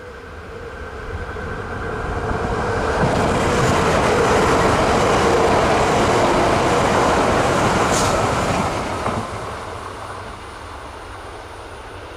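Akita Shinkansen E3 series Komachi electric train passing through at speed. Its rumble and wheel-on-rail rushing noise build up, stay loud through the middle and fade away near the end, with one brief sharp crack about eight seconds in.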